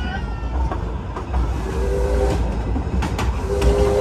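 Miniature zoo train running along the track, heard from an open passenger car: a steady low rumble with light clicks and clatter. Two short steady tones sound about two seconds in and again near the end.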